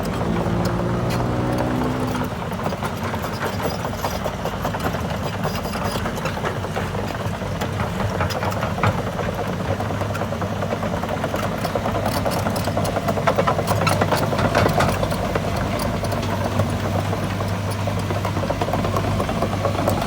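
Caterpillar hydraulic excavator's diesel engine running as the machine travels on its tracks, rising in pitch over the first two seconds and then holding a steady drone, with scattered rattles and clicks.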